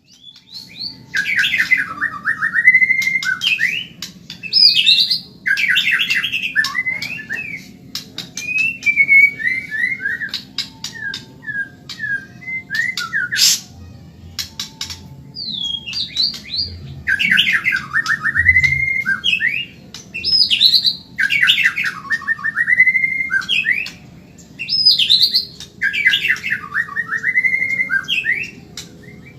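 White-rumped shama (murai batu, Medan type) singing in fast, loud phrases of rapid trills that sweep up and down, one phrase after another with short pauses between, mixed with sharp clicks.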